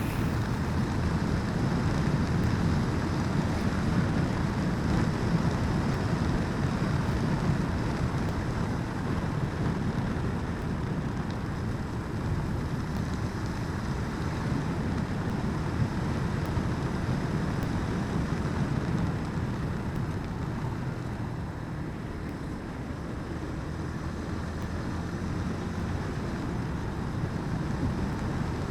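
Steady wind rush over the microphone of a moving motorcycle, with the bike's engine and road noise underneath.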